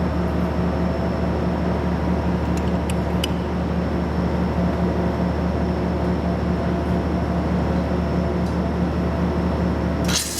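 Steady mechanical hum of a running machine, with a low drone and a faint pulsing tone. Near the end comes a brief crackling burst, then the hum cuts off suddenly.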